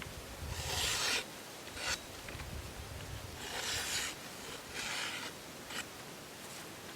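A few rasping scrapes of about half a second each, three in all, with a couple of light clicks between them.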